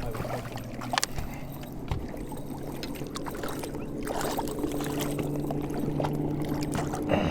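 A boat's motor running with a steady low hum that grows stronger about halfway through, and a couple of short knocks about one and two seconds in.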